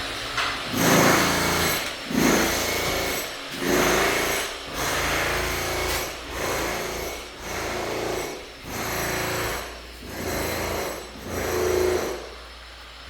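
A hand tool worked in rhythmic rasping strokes during demolition, about one stroke every 1.2 seconds, nine in a row, over a steady low hum.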